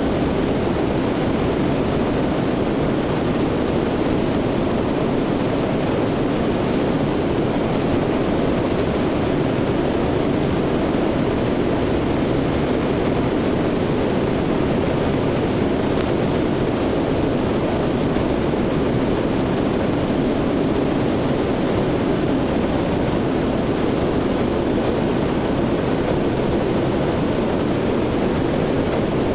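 Steady drone of a C-130's four turboprop engines in flight, heard from on board the aircraft.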